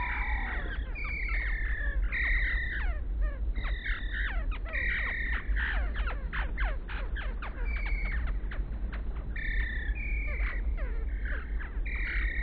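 Hummingbird chirps slowed down to about three-quarter speed, lowering their pitch: short repeated call notes about once a second, mixed with many quick falling chirps.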